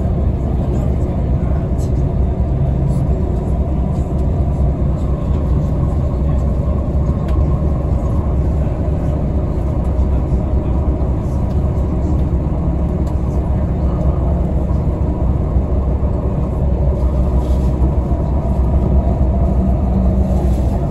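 Steady rumble of a moving passenger train heard from inside the carriage, mostly low and even, from the wheels running on the rails.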